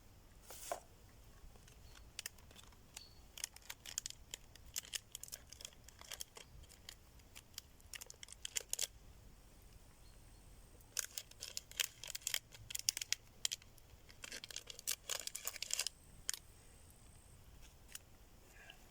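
Wood campfire crackling: irregular sharp pops and snaps coming in busy clusters, with quieter stretches between.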